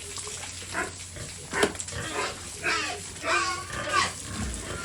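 Pigs squealing and grunting in a run of short calls, about six in a few seconds, with one sudden sharp noise about a second and a half in.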